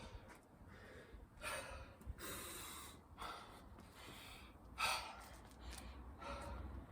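A man breathing hard and gasping from exertion, about five heavy breaths, the loudest just under five seconds in. He is winded mid-way through a long set of burpees and chin-ups.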